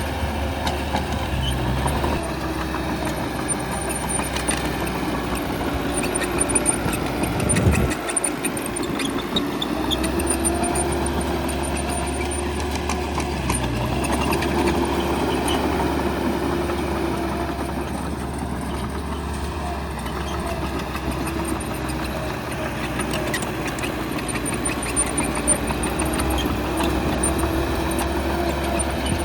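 Bulldozer's diesel engine running steadily under working load. There is a brief change in the engine note about eight seconds in.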